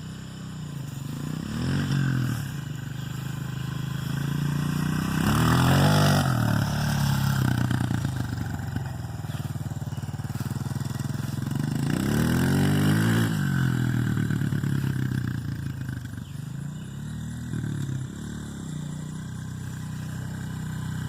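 Honda CRF125F dirt bike's single-cylinder four-stroke engine running and being revved up and back down four times, spinning the rear wheel to sling a roostertail of dirt. The biggest rev, about six seconds in, carries an extra hiss.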